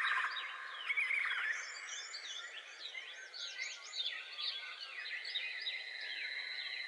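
Wild birds chirping in many quick, high notes over a steady high insect drone. A rapidly pulsing call ends just after the start.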